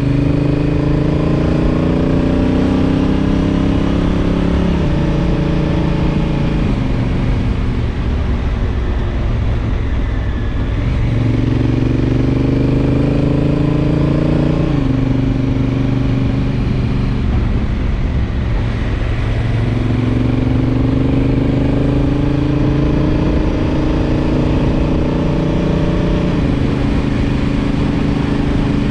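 Honda Africa Twin DCT's parallel-twin engine under way, its pitch climbing as it pulls and dropping in quick steps as the dual-clutch gearbox shifts up. The engine note falls away twice, near the middle and around two-thirds through, then rises again as it accelerates.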